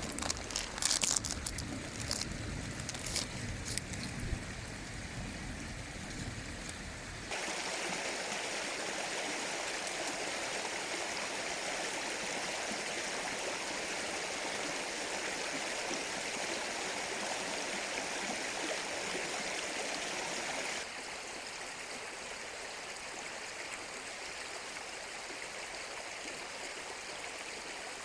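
Mountain stream running steadily, an even rushing of water. For the first several seconds scattered clicks and knocks sound over a low rumble. The water sound changes abruptly in tone about seven seconds in and again after about twenty-one seconds.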